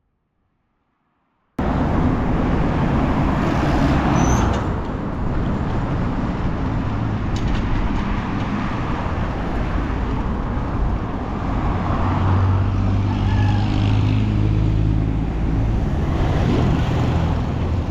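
Road traffic: motor vehicles running in a busy street, cutting in suddenly about a second and a half in after near silence. A low engine hum swells for a few seconds past the middle.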